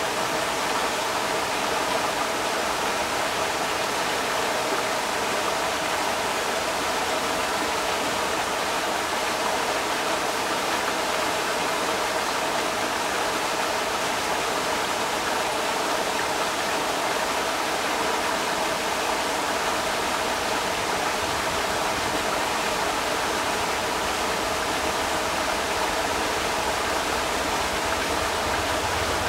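Creek water rushing steadily over rocks, a continuous even rush with no breaks.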